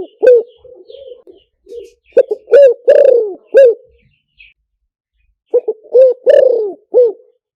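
Spotted dove cooing: a soft coo at the start, then two full phrases of four or five short rising-and-falling coos, the first about two seconds in and the second near the end, with a gap of silence between them.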